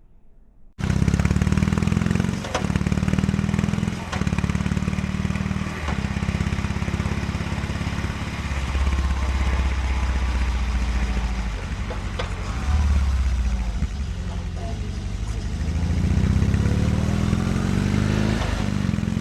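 BMW R18 Roctane's big boxer twin engine running, starting abruptly about a second in, its pitch rising and falling several times, with a few short sharp knocks along the way.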